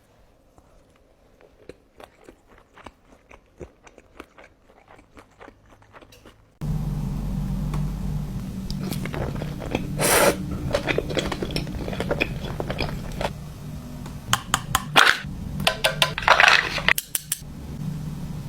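Close-miked eating of sushi: soft, quiet chewing clicks at first, then after a cut, louder biting and crunching over a low steady hum. The loudest crunches come about ten seconds in and again near the end.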